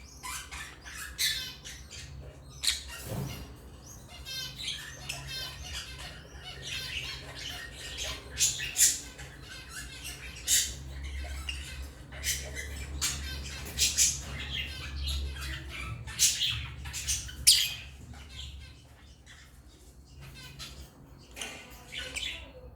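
African lovebirds chirping and squawking: a rapid, overlapping series of short shrill calls, dropping off for a few seconds near the end, over a steady low hum.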